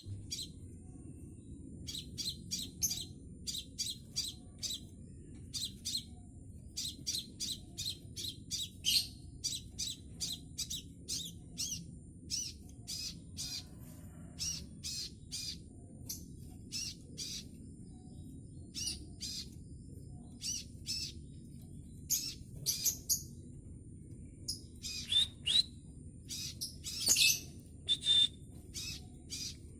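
A juvenile scarlet minivet chirping, a young bird practising its song in short, high, repeated calls that grow louder and more varied near the end. A steady low hum and a thin high whine run underneath.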